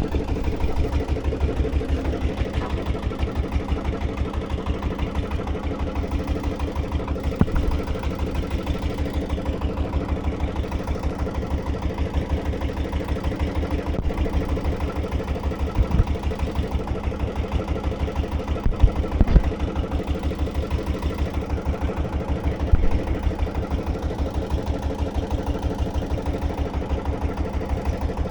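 A small engine running steadily at a low, even speed, with a rapid regular thumping beat. A few short louder knocks stand out here and there.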